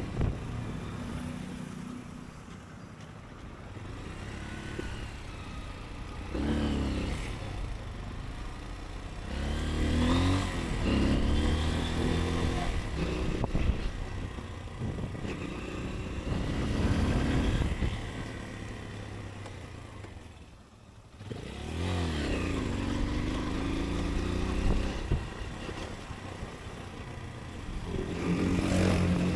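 Motorcycle engine pulling away and accelerating several times, its pitch rising through the gears and dropping at each shift, with a brief lull about two-thirds through where it eases off, over steady road and wind noise.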